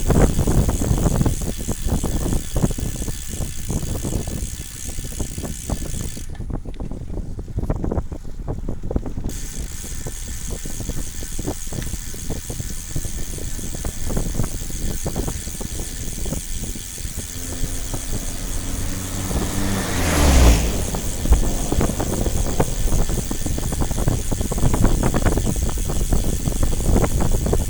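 Road vehicle noise: a steady rumble with an engine running. About two-thirds of the way in, an engine's pitch rises to a loud peak as a vehicle passes close.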